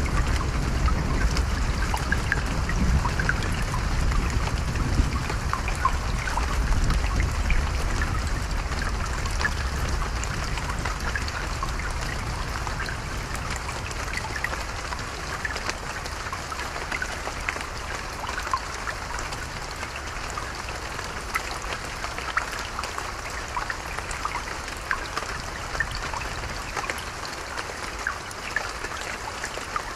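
A stream trickling and babbling steadily, with a fine patter of drops. A low rumble of distant thunder underneath dies away over the first ten seconds or so.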